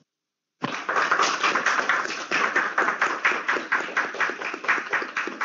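A small group of people applauding, a dense run of separate hand claps starting about half a second in.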